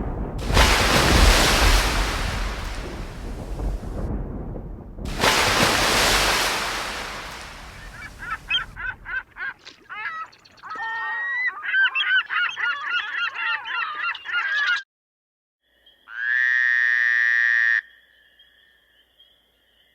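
A run of sound effects: two long rumbling surges of noise like thunder, then several seconds of rapid goose-like honking and quacking calls, then a short steady buzzing horn-like tone about three-quarters of the way through, with a faint thin tone lingering after it.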